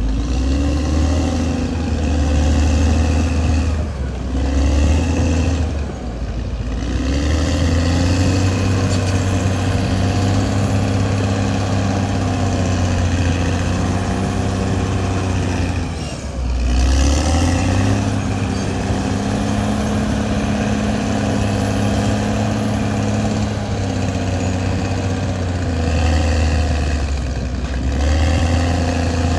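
Caterpillar D6R XL track-type bulldozer's diesel engine running under load. A high whine follows the engine's pitch. The engine sags and recovers several times, most clearly about four, six and sixteen seconds in.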